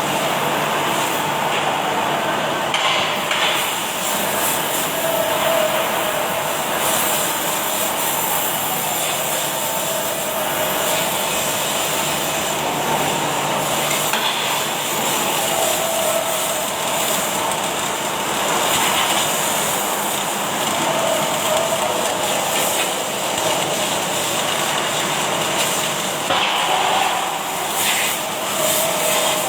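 Automatic welding machine running with its arc alight: a loud, steady hiss-like noise, with a faint tone that comes and goes several times.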